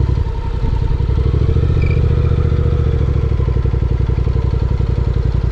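Honda NC750X's 745 cc parallel-twin engine running while the bike is under way, with a short dip in level about half a second in before it runs steadily again.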